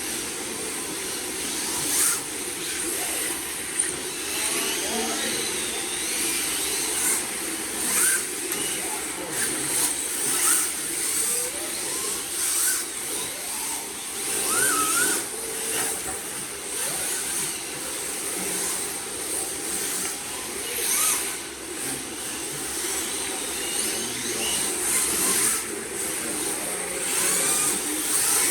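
Electric RC drift cars running on the track: motor whine that rises and falls in short glides with the throttle over a steady high hiss, with a few brief knocks.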